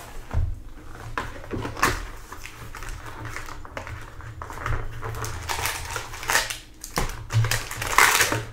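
Trading cards and their plastic packaging being handled at a table: irregular rustling and crinkling with light clicks and taps, the loudest bursts about two seconds in and near the end.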